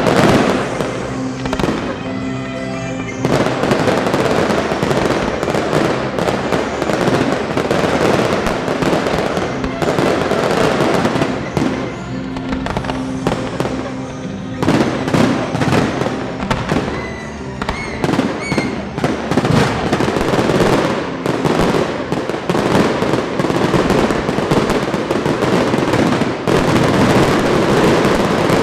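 Fireworks display in full barrage: rapid, near-continuous bangs and crackling with hardly a break, with music playing underneath.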